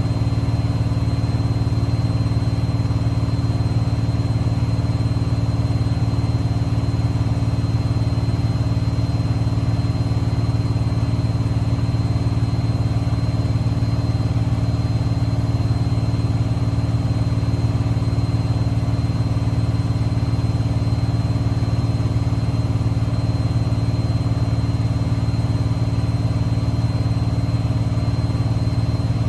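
Privileg washing machine spinning at a steady speed: a constant motor-and-drum hum with a thin high whine above it, with no change in speed.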